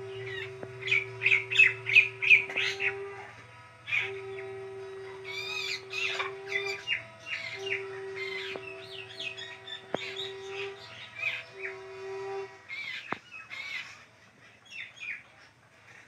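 Birds calling in quick runs of short chirps and harsh squawks, densest in the first few seconds. Behind them a steady humming tone comes and goes in stretches of a few seconds and stops about three-quarters of the way through.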